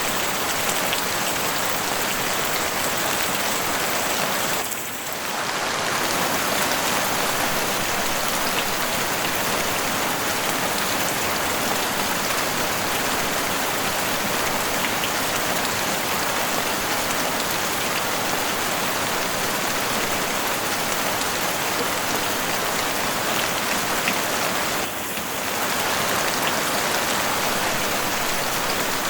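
Heavy rain falling steadily on a house roof, a dense unbroken patter that dips briefly twice, about five seconds in and again a few seconds before the end.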